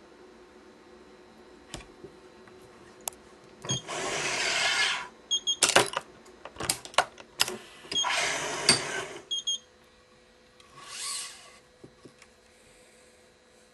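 Badminton string being drawn quickly through the racket's strings and grommets, giving two hissing zips of about a second each and a fainter one later, with sharp clicks of the stringing machine's clamps and parts in between. Short high beeps sound a few times.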